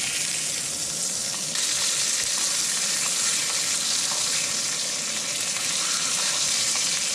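Burger patties sizzling in a small frying pan on a camp stove, a steady hiss that grows louder about a second and a half in, with a few light scrapes of the spatula working them.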